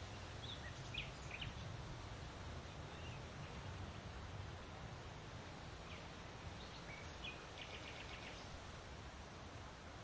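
Outdoor ambience: a low steady rumble with faint, short bird chirps, a few in the first second and a half and a quicker run of them about six to eight and a half seconds in.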